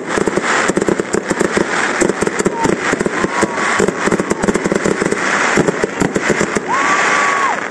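Fireworks display: a dense, rapid run of crackling pops and bangs from bursting shells, with a short whistle near the end.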